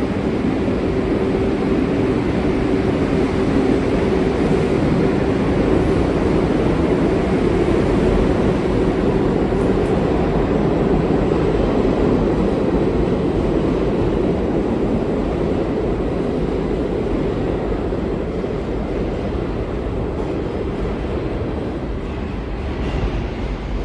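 New York City subway train running through the station, a loud steady rumble with a steady tone in the first few seconds, easing off slightly over the second half.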